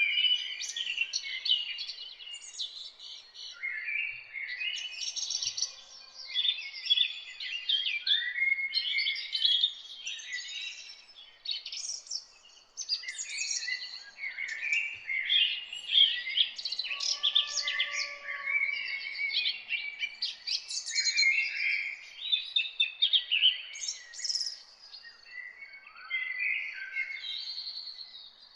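Several songbirds singing and chirping at once, in dense overlapping high-pitched phrases and trills with hardly a pause.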